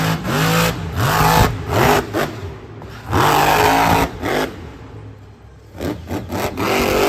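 Car engine revving up and down several times, its pitch repeatedly rising and falling, over a loud rushing hiss.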